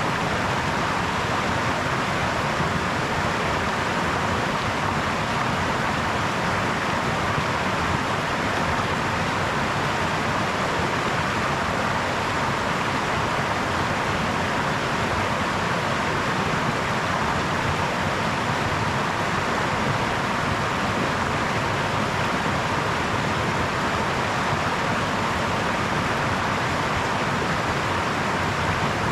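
Small brook babbling over stones: a steady, even rush of water with no breaks.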